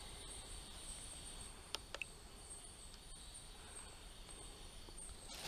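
Faint rainforest insects trilling steadily at two high pitches, with a couple of faint clicks about two seconds in.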